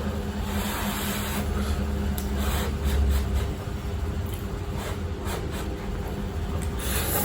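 Eating instant noodles from a cup: irregular clicks of chewing and slurping, over a steady low hum.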